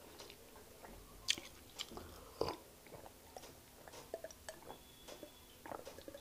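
Close-miked mouth sounds of a person chewing soft fufu and egusi soup: faint, scattered wet smacks and clicks. In the second half she sips and swallows water from a glass.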